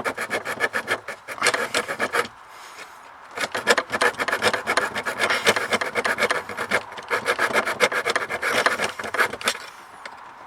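Hand saw cutting through the HVAC housing to reach the heater core: quick, light back-and-forth rasping strokes. It pauses briefly about two seconds in and stops shortly before the end.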